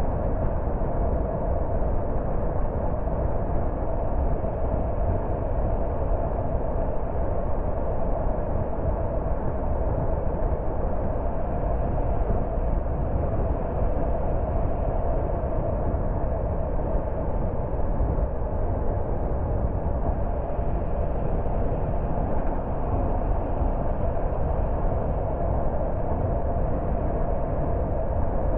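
A car driving at a steady speed: continuous, even road noise from the tyres and engine, strongest in the low end, with no changes or separate events.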